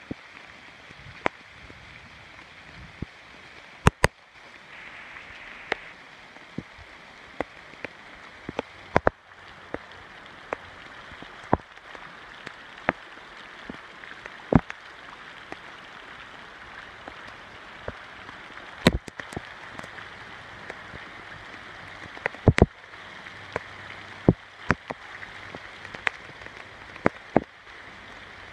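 Steady rain with many irregular sharp taps close by, some much louder than the rest.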